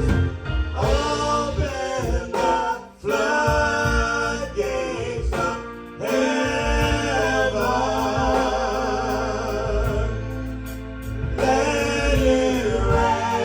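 Gospel worship song: voices singing with vibrato over a band with a steady bass line, briefly dropping out twice.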